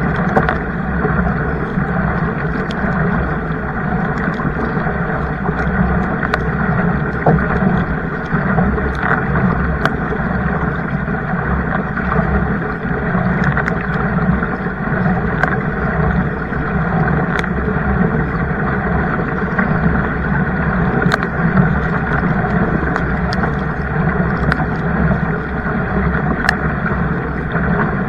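Kayak moving on the water: a steady rush of water and wind noise, with scattered small clicks and drips.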